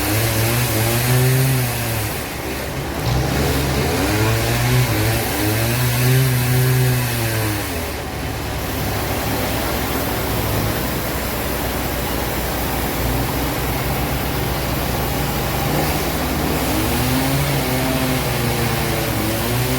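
An engine revving up and dropping back several times, then running more steadily through the middle before revving in swells again near the end.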